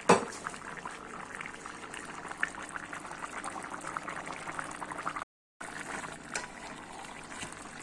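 Plov rice bubbling in its broth in the pot, a steady simmer with many small pops. A short loud falling sound comes right at the start, and the sound cuts out completely for a moment about five seconds in.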